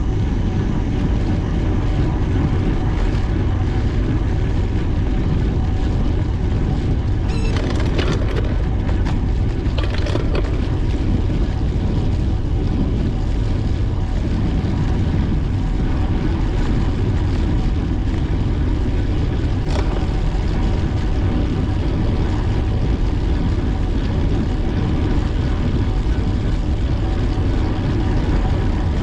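Steady wind noise rushing over the microphone of a camera on a moving bicycle, with a few brief clicks or rattles, two close together about a quarter of the way in and one near the middle.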